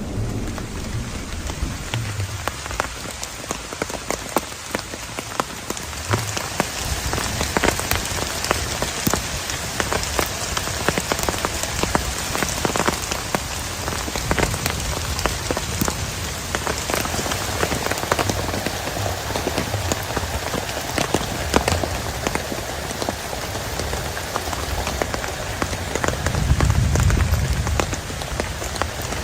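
Heavy rain falling steadily, with many separate drops striking a surface close by. There is a brief louder low rumble, like a gust of wind, near the end.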